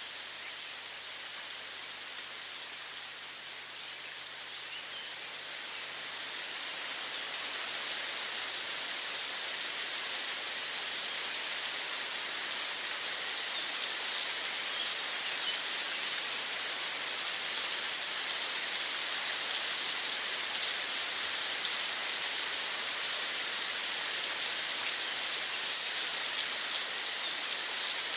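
Steady rain falling, a dense even hiss of pattering drops that swells over the first several seconds and then holds steady.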